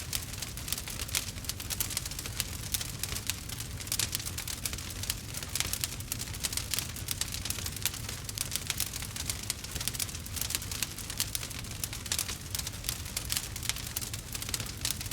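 Wood fire burning, with a dense run of crackles and small pops over a low rumble of the flames.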